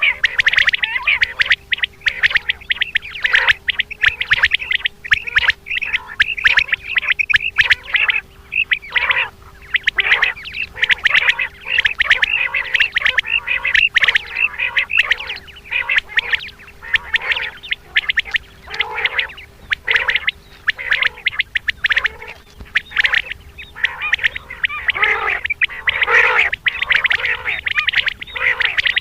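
Common quail calling over and over in quick, dense runs of short calls: the female quail call played by hunters to lure males. A faint steady hum runs underneath.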